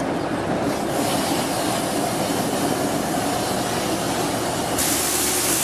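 Narrow-gauge train running on the track: a steady rumble of wheels and rails. A high hiss steps up about half a second in and again near the end.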